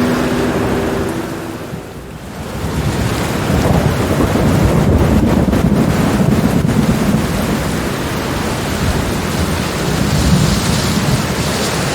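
Rainstorm: steady rain hiss with thunder, a low rolling rumble that builds about three seconds in and carries on under the rain. A few held musical tones fade out in the first second.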